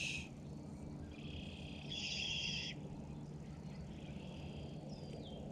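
Faint bird calls over a steady low hum: one held, buzzy call lasting about a second and a half, then a short falling whistle near the end.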